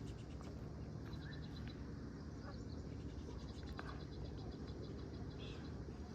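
Faint, high, rhythmic chirping of small calling animals, an insect-or-frog chorus, pulsing steadily over a low rumble, with a few soft clicks.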